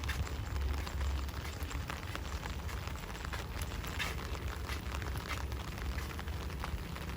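Steady rain falling, with many separate drops ticking close by, over a low rumble.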